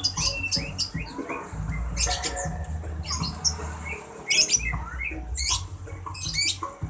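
Several caged songbirds chirping and squawking in quick, overlapping bursts over a low rumble.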